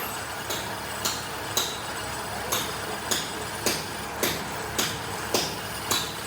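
Hammer strikes on metal, about two a second with one short pause, over steady factory background noise.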